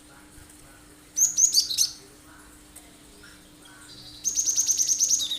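Cinereous tit (gelatik batu) singing loud, sharp song phrases. There is a short flurry of high notes about a second in, then from about four seconds in a fast, even run of about a dozen repeated high notes.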